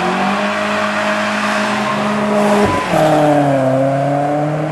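Car engine revving up and then held at high, steady revs over a hiss of tyre noise. About two and a half seconds in the revs cut briefly, then the engine runs on at lower revs that sag and slowly climb again.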